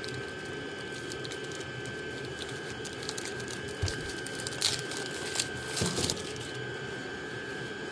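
Packaging crinkling and rustling in a short cluster about halfway through as exhaust heat wrap is unpacked, over the steady fan hum of a running diesel air heater.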